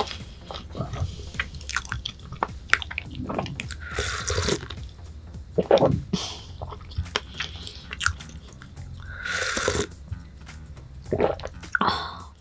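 Close-miked eating sounds: chewing with small wet mouth clicks, and two longer breathy sounds about four and nine seconds in. Soft background music runs underneath.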